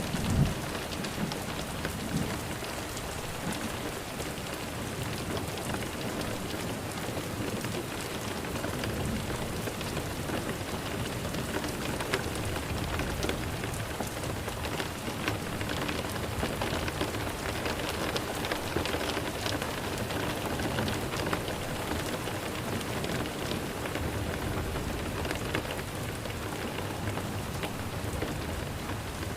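Steady rain falling, an even hiss with scattered drop patter, with a brief low rumble of thunder right at the start.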